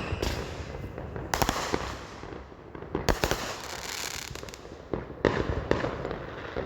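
Fireworks going off: three clusters of rapid crackling pops, about two seconds apart.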